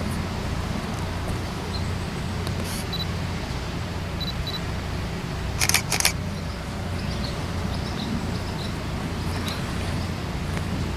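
A steady low rumble, with two sharp clicks close together about six seconds in.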